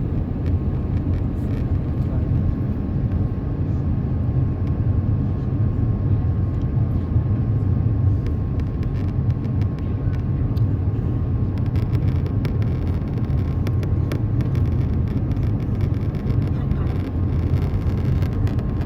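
Airbus A350 airliner's steady low rumble, as heard aboard, with light clicks and rattles in the second half.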